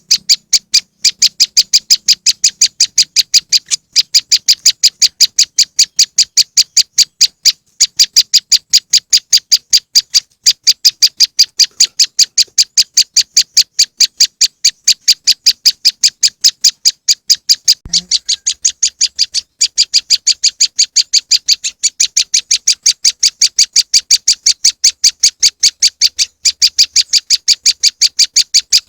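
Prenjak lumut (the small Indonesian bird the title calls a moss wren) calling in a rapid, even series of short high chirps, several a second, with a few brief breaks. It is a looped lure recording used to draw wild birds of the species in.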